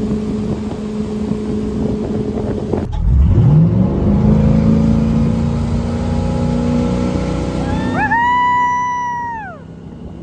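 Motorboat engine running steadily. After a cut it revs up from low and settles at speed with heavy wind and water noise. Near the end a high held tone sounds for about a second and a half, then falls away.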